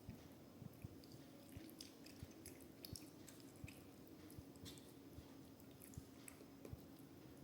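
A person chewing food, with irregular wet mouth clicks and smacks, over a faint steady hum.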